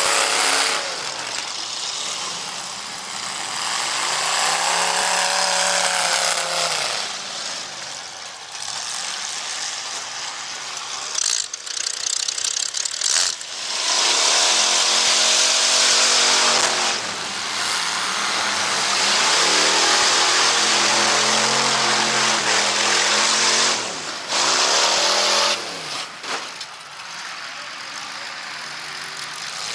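Car engines revving hard, their pitch repeatedly climbing and falling as the cars accelerate and pass, over a loud continuous rush of noise.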